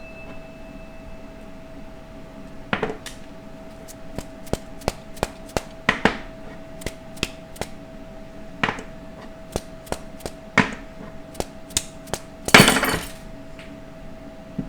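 Hammer blows and metal knocks on the parts of a locked-up 4L60E automatic transmission as it is forced apart, irregular sharp strikes with one loud, longer clatter near the end.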